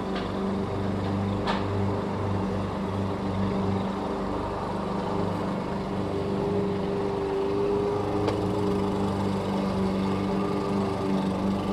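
Lawn mower engine running steadily at an even speed, with a few faint brief clicks.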